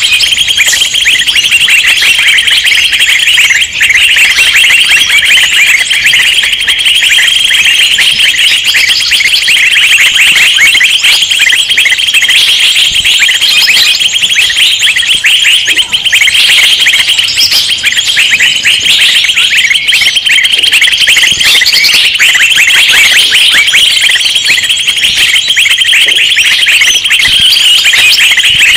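A dense, unbroken chorus of many small songbirds chattering and calling over one another in a rapid, high-pitched jumble. This is a bird-lure recording of noisy flock calls, used to draw in wild birds.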